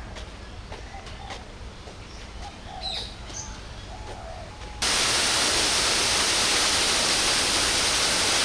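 A few faint bird chirps over a low background rumble, then, a little under five seconds in, the sound switches abruptly to the loud, steady rush of a waterfall.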